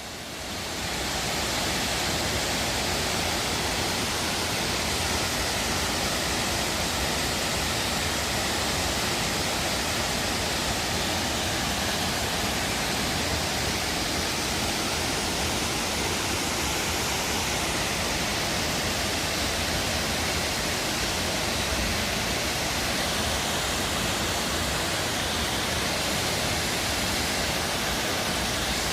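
A waterfall over 20 m high, falling into its pool: a steady, dense rush of water that fades in over the first second or so.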